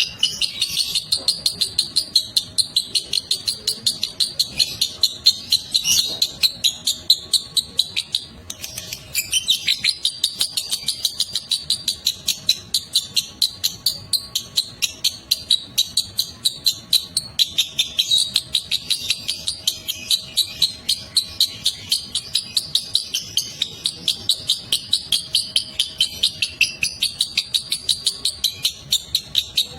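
Lovebird giving a long 'ngekek' chatter: a rapid, unbroken string of high-pitched chirps at about five a second, with one short break about nine seconds in, stopping at the very end.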